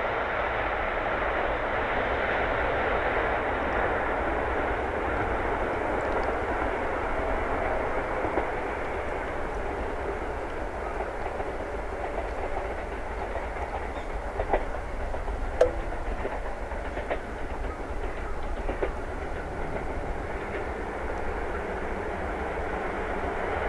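Keisei Main Line electric train running along the track with a steady rolling rumble. Wheels clicking over rail joints, a few sharp clicks clustered in the latter half.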